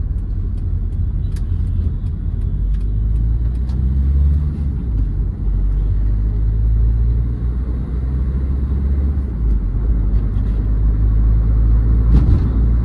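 Low, steady rumble of a 2008 Hyundai Verna's 1.6-litre turbo-diesel engine and road noise while driving. The engine note rises briefly a few seconds in as the car picks up speed.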